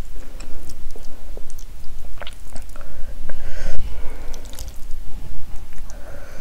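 Close-miked chewing of a mouthful of rice and curry, with wet, squishy mouth sounds and scattered clicks and smacks.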